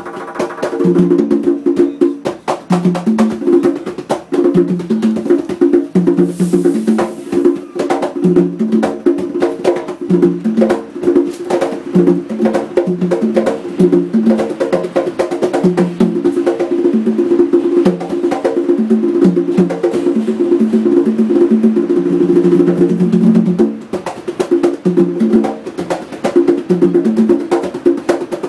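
Conga drums played by hand in a fast, dense rhythm of quick pitched strokes.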